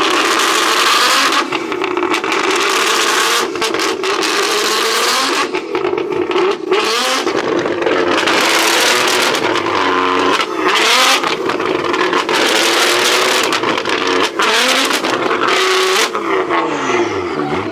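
A car engine revving hard again and again, loud exhaust with the pitch climbing, holding and dropping, in surges separated by brief dips.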